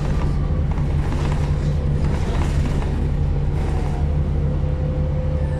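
City bus engine running, heard from inside the bus as a steady low drone with a faint steady hum above it.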